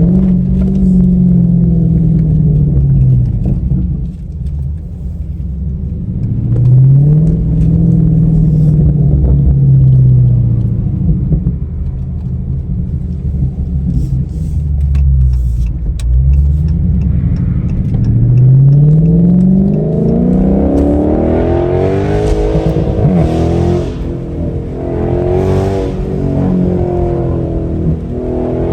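V8 engine of an SRT muscle car under acceleration. Its pitch rises and falls back in long swells through the first half, then climbs again and again in quick pulls through the second half.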